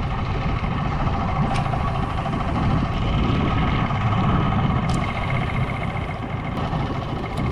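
Boat motor running steadily under a low rumble, with a few faint ticks over it.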